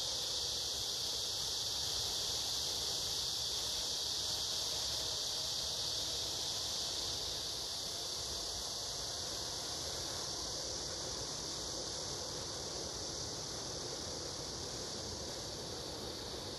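Chorus of black cicadas (Cryptotympana atrata) singing: a continuous, high-pitched buzzing drone that eases a little after about seven seconds.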